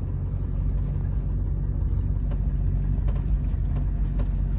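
Diesel pickup truck engine running steadily with road noise, heard from inside the cab as the truck drives: a low, even hum.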